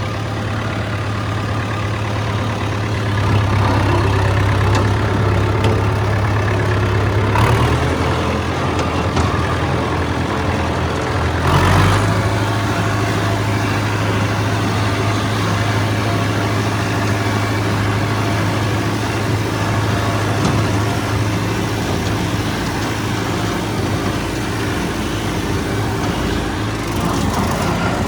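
Farm tractor engine running steadily while driving a brush hog rotary mower, its low note shifting twice in the first dozen seconds.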